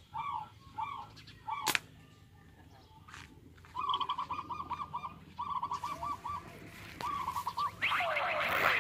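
A bird calling in quick runs of short, arched squawks, about five a second, with one sharp click about two seconds in; a rush of noise comes up near the end.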